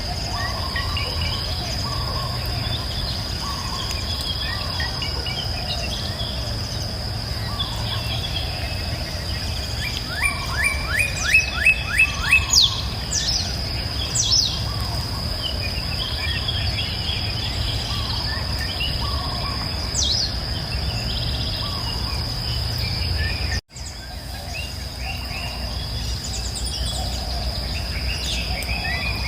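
Wild birds chirping and singing over a steady high insect drone and a low steady rumble. About ten seconds in, one bird gives a rapid run of about eight loud repeated sweeping notes. The whole sound drops out for an instant about two-thirds of the way through.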